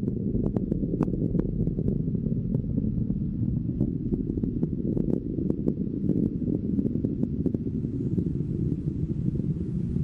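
Rocket engine rumble during launch and climb, a steady low rumble with frequent sharp crackles.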